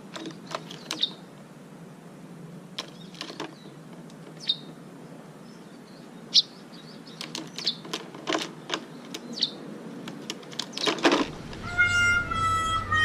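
A small bird giving short, scattered chirps, mixed with sharp clicks; music comes in near the end.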